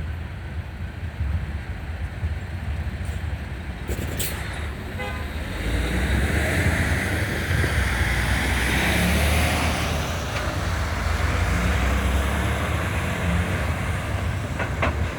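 Train at a road grade crossing: a continuous low rumble, with the horn sounding and swelling from about six seconds in. Wind noise on the microphone.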